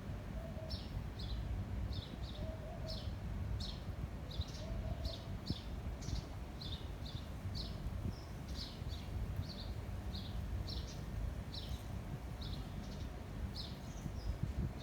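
A small bird chirping over and over in short high notes, about two a second, over a steady low rumble of wind on the microphone.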